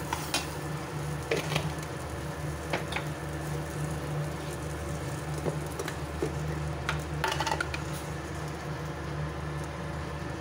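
Peanuts, curry leaves and green chillies sizzling in a steel kadhai over a steady low hum, with a few scrapes of a flat spatula against the pan, the longest cluster about seven seconds in.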